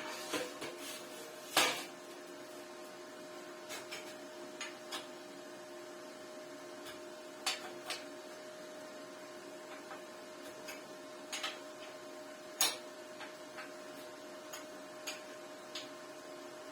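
Scattered light knocks and clicks, a few seconds apart, over a steady hum.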